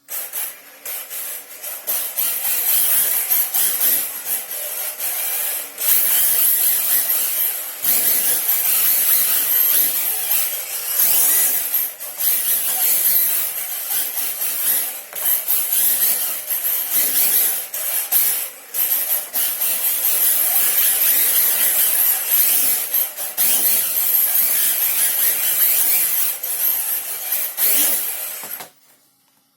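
Radio-controlled drift car running hard: its electric motor and gears whine and its tyres scrub across the floor, easing off briefly every few seconds and stopping near the end.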